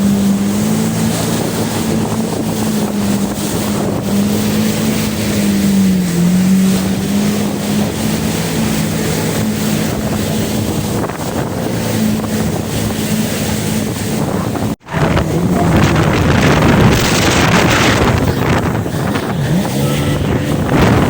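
Yamaha WaveRunner jet ski engine running steadily at speed, its pitch dipping slightly and recovering about six seconds in, with wind buffeting the microphone. The sound cuts out for a moment about fifteen seconds in, after which the wind and water noise is louder over the engine.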